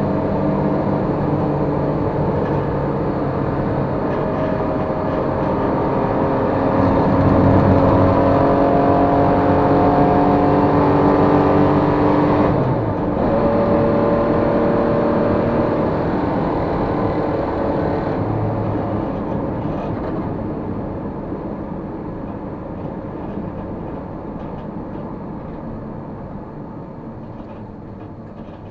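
Racing engine heard on board under load, its note climbing in pitch and dropping sharply about twelve seconds in before climbing again. In the last third the engine note fades and the sound grows steadily quieter.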